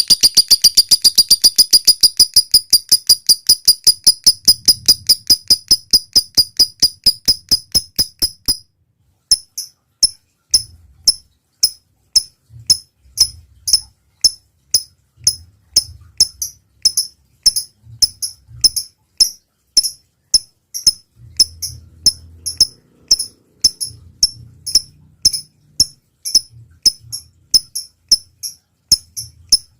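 Lovebird calling: a fast run of high chirps, about five a second, breaks off about eight seconds in, followed after a short gap by sharp single chirps about twice a second.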